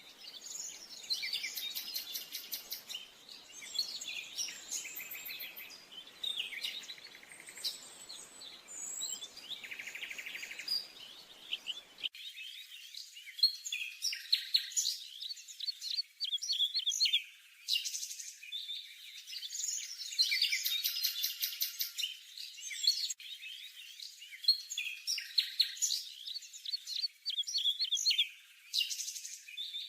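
Small songbirds chirping and trilling, many short high calls and fast trills overlapping one another. About twelve seconds in, the faint background hiss under the calls stops suddenly while the chirping continues.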